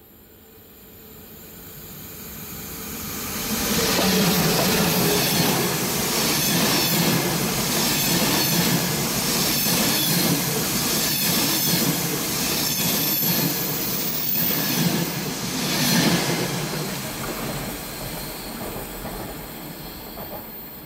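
A train passing: it grows louder over the first few seconds, runs loud with rhythmic wheel clatter over the rail joints and a thin high wheel squeal, then fades away near the end.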